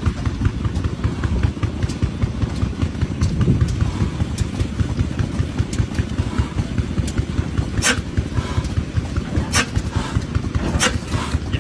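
17-horsepower Ruston Hornsby engine running at a steady beat, about three beats a second, with a few sharp clicks in the second half.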